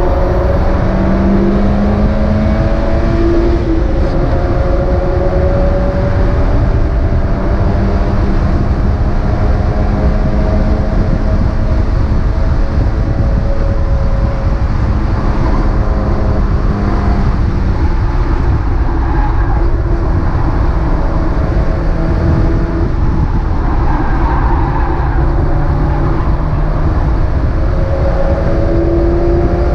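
Mazda MX-5 race car's four-cylinder engine running hard, heard onboard over heavy wind and road rumble. Its pitch slowly rises and falls with throttle and gear changes.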